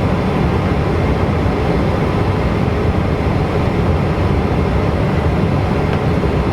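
Steady rumble and rush of a Boeing 737NG's flight deck on the ground, from the running engines and air-conditioning packs.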